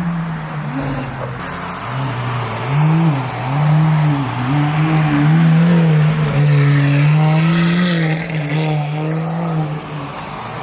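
A car engine running, its pitch rising and falling repeatedly as it is revved lightly.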